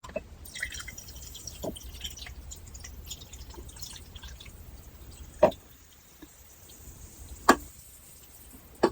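Light scattered clicking and rustling of handled objects, then three sharp hollow taps about two seconds apart, the last near the end.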